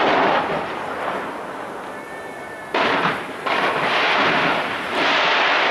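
Fireworks bursting and crackling in dense volleys. A loud volley opens, dies down a little, then fresh volleys break in suddenly near three seconds and again near five seconds.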